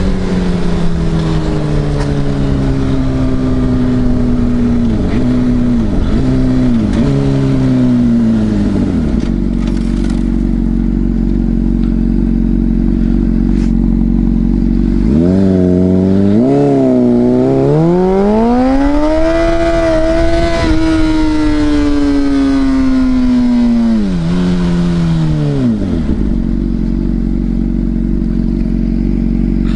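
Sport motorcycle engine in riding: it slows with several blipped downshifts, runs steady for a few seconds, then accelerates up through the gears, holds high revs and rolls off again.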